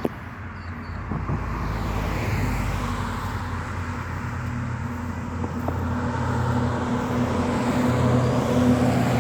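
Motor vehicle engine and road noise, a steady low hum that builds about a second in and grows louder toward the end.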